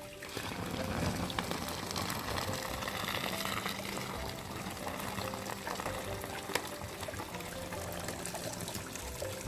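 Liquid pouring and trickling steadily, with background music playing over it.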